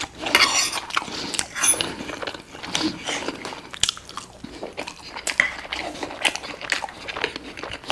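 A person chewing and biting a mouthful of food, with many irregular wet mouth clicks and smacks.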